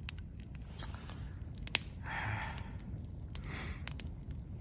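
Campfire of damp wood crackling, with scattered sharp pops and two short soft hissing sounds over a low steady rumble.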